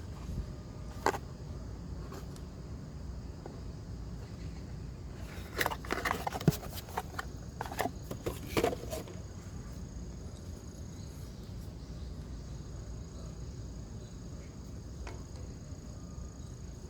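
Scattered clicks, knocks and scrapes of tools and parts being handled, clustered in the middle, over a steady low hum and a faint steady high tone.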